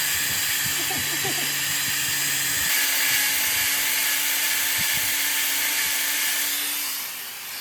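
A workshop power tool running steadily with a loud hiss. Its sound shifts about two and a half seconds in, and it stops near the end.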